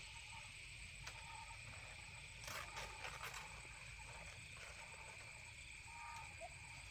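Quiet outdoor ambience: a steady high insect drone with a few short chirping calls and some faint knocks.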